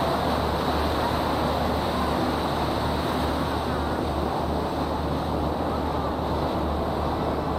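Steady drone of a river boat's engine under a constant rushing noise of wind and water.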